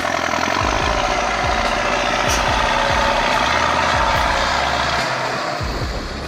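Belarus 892 tractor's turbocharged diesel engine running hard: a loud, steady rushing whine from the engine and turbo over a low rumble, easing off near the end.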